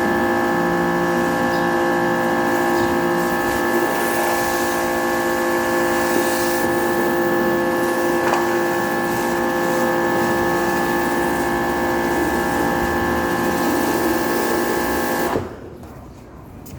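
Kärcher K3.30 electric pressure washer running under load, a steady motor-and-pump whine over the hiss of spraying water, cutting off suddenly about fifteen seconds in.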